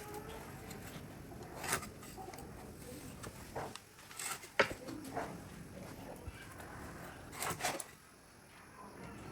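Scattered handling noises: a few short scrapes and rustles, with one sharp tap or click about four and a half seconds in.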